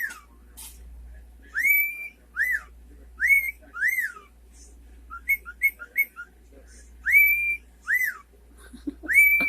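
Cockatiel whistling: a string of clear whistled notes, some sliding up and held, others rising and falling, with a quick run of short chirps about halfway through.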